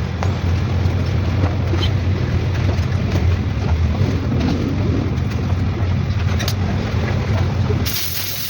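A car engine running at a steady idle with a low, even drone; near the end the drone drops away and a high hiss comes in.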